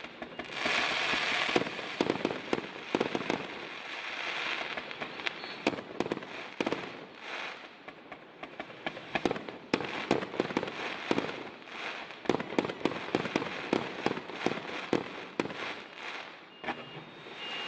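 160-shot fireworks battery (cake) firing: a rapid, uneven string of sharp launch reports and bangs, with a dense, noisy spell about a second in.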